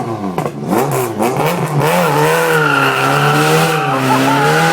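A supercar engine blipped up and down a few times, then held loud at steady high revs with the pitch wavering slightly.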